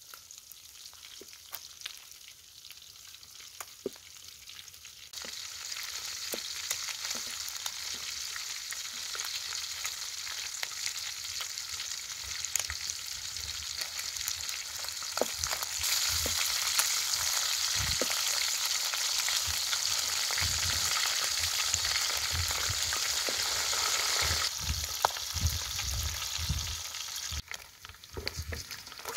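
Pieces of field mouse deep-frying in hot oil in a metal wok, sizzling with many small pops, while a wooden spatula stirs and scrapes them. The sizzle is faint at first, grows louder about five seconds in and louder again past the middle, then drops off near the end.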